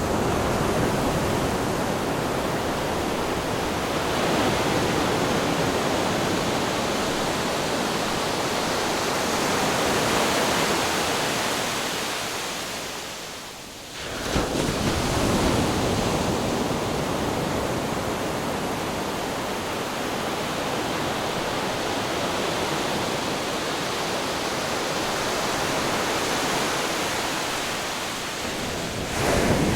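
Continuous roar of ocean surf and breaking waves. It fades briefly about thirteen seconds in, then comes back at full strength all at once.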